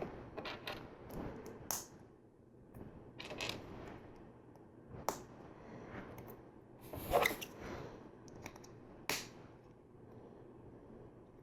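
LEGO plastic pieces being handled and pressed together: scattered small clicks and short rustles with quiet gaps, the busiest moment about seven seconds in.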